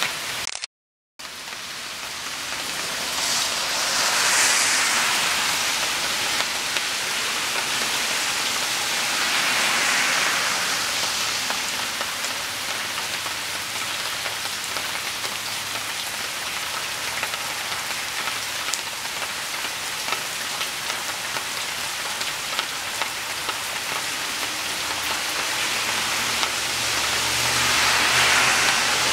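Heavy rain falling steadily onto a flooded yard, a continuous hiss of drops hitting standing run-off water that swells and eases a little. The sound cuts out briefly about a second in.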